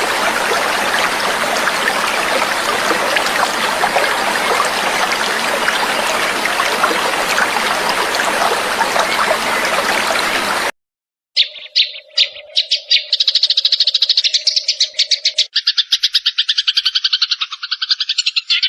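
Steady rush of trickling water that cuts off abruptly about ten seconds in. After a short gap comes a songbird's rapid chattering trill of many notes a second, with a steady low hum under its first few seconds.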